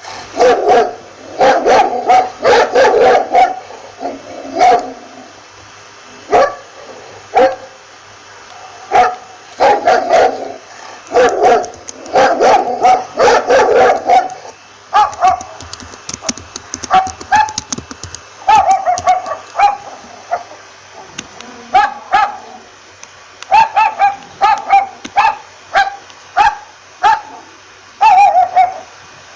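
Dog barking repeatedly in quick bursts. It starts with fuller, lower barks, and from about halfway through turns to higher, sharper yaps.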